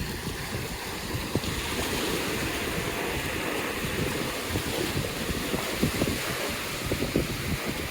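Ocean surf washing steadily on a sandy beach, with gusts of wind buffeting the microphone.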